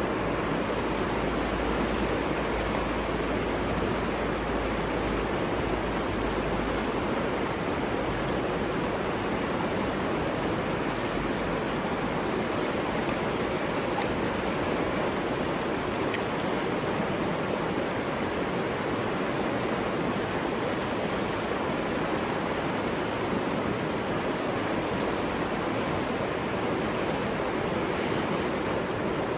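River water flowing, a steady even rush, with an added low rumble for the first several seconds.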